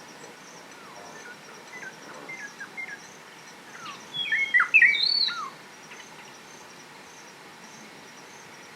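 Wild birds calling: a few short chirps, then a louder whistled phrase of several quick gliding notes about halfway through. Under it, a faint, evenly repeating high insect chirp keeps on throughout.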